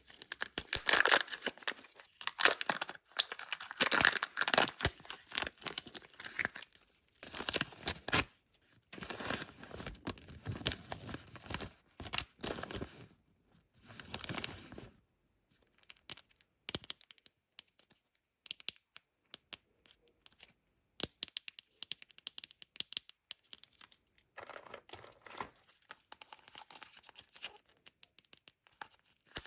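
Kinder Joy surprise-egg wrappers being torn and crinkled open by hand, in dense bursts through the first half. Later mostly sparse small clicks and taps, with one more short burst of crinkling.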